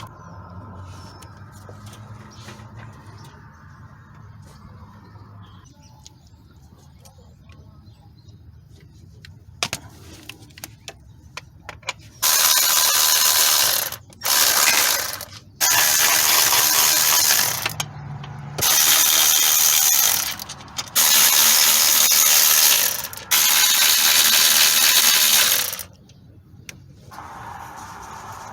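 A few light tool clicks, then five loud bursts of compressed air from a shop air tool, each one to three seconds long, the last and longest lasting several seconds.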